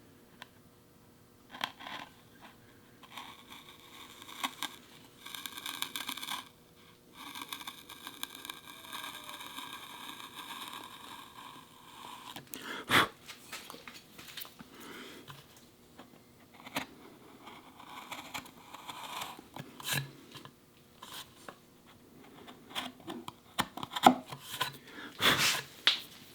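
Hand tools cutting wood at a dovetail joint: a stretch of steady scraping cuts, then scattered knocks and taps against the workpiece.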